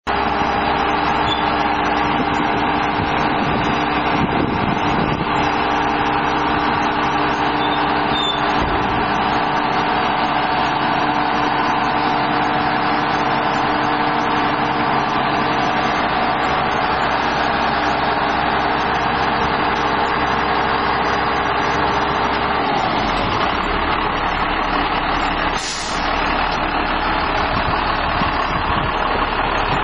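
Dongfeng 153 hook-lift truck's diesel engine running steadily, its low note changing about three-quarters of the way through, with a brief hiss shortly after.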